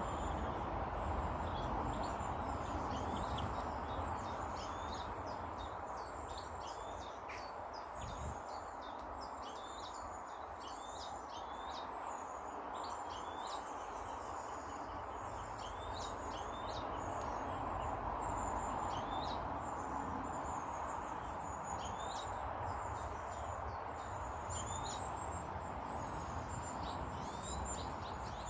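Small birds chirping and calling again and again, many short high notes, over a steady background noise.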